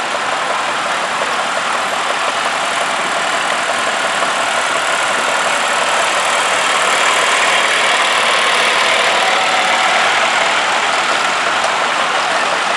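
Vintage tractor engines running, growing a little louder partway through.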